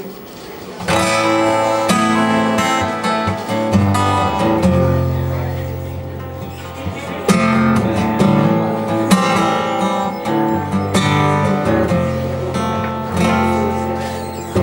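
Acoustic guitar playing a strummed instrumental intro of chords, starting about a second in.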